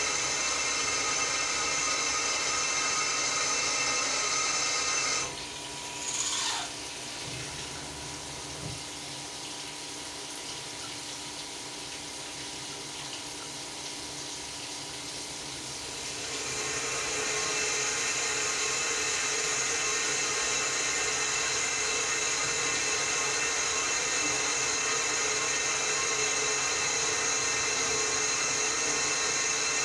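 CNC milling machine running with coolant flowing. About five seconds in the machining noise drops away with a brief falling tone, stays quieter for about ten seconds, then comes back up and runs steadily.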